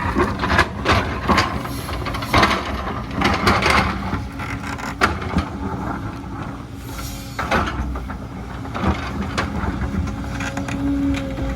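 Heavy earthmoving machine's diesel engine running steadily, with repeated knocks and clatter. A steady whine comes in near the end.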